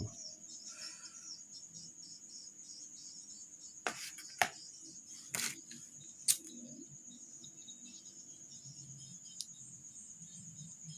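Steady high-pitched chirring of crickets, with four sharp clicks and knocks of small parts being handled about four to six seconds in, and one faint click later.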